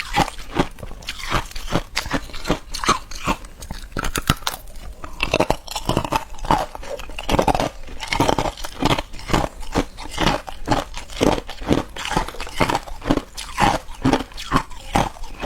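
Ice being chewed and crunched between the teeth: a steady run of crunches, about two to three a second.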